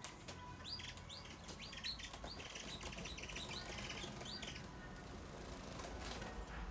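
Saffron finch (canário-da-terra) singing a courtship song to a female: a run of short, sharp down-slurred chirps mixed with quick trills, easing off after about four and a half seconds.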